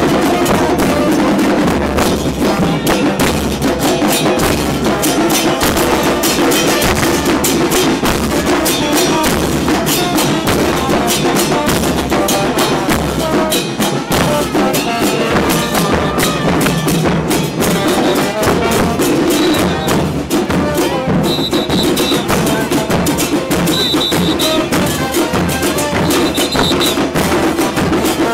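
Murga percussion band playing: bombos with cymbals and snare drums in a steady, loud, driving carnival rhythm.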